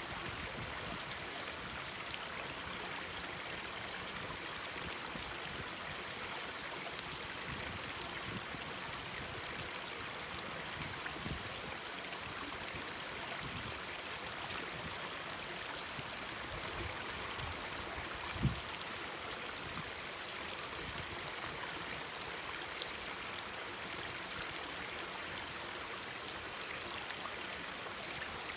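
Mountain stream babbling steadily over rocks, with a campfire crackling now and then and one sharper pop about two-thirds of the way through.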